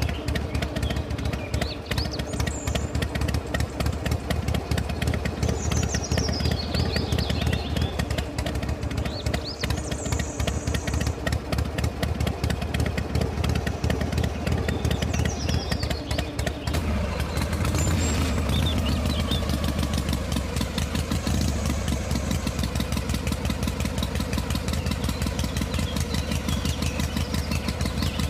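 A small engine running steadily with rapid, even firing pulses and a low hum; its note shifts about seventeen seconds in.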